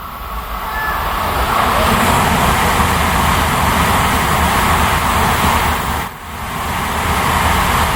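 Shinkansen bullet train running past, a loud steady rushing noise with a low rumble that builds over the first couple of seconds and dips briefly about six seconds in.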